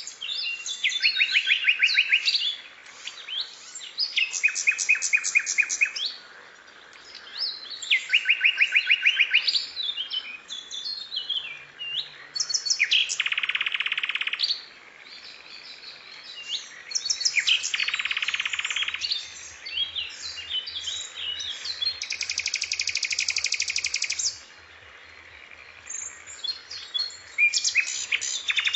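Songbird song from a bird-song training recording: quick chirps and sweeping whistles broken by several fast trilled phrases of about two seconds each, then three harsher buzzy phrases in the second half.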